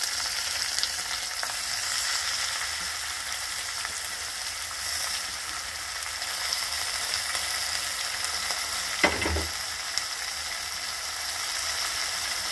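Steady hiss of prawns and onions frying in oil in a pot, just covered with a heap of fresh sorrel (chukkakura) leaves. A single knock comes about nine seconds in.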